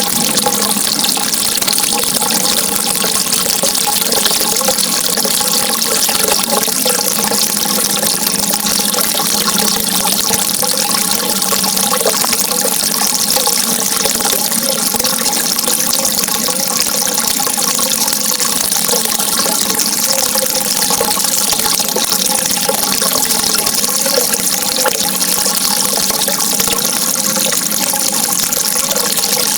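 Steady, unbroken rushing of flowing water, with faint steady tones beneath it.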